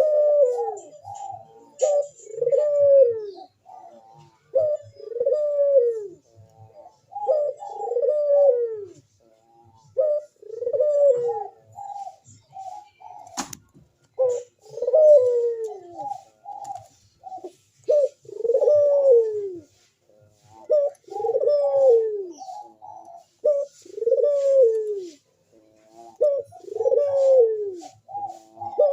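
Puter (Barbary dove) cooing over and over, a male in breeding condition: each coo rises briefly and then falls, about one every two seconds. One sharp click about halfway through.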